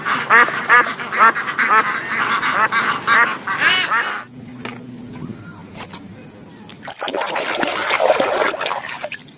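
Duck quacking in a quick run of short quacks, about three a second, stopping about four seconds in. Near the end comes a few seconds of steady rushing noise.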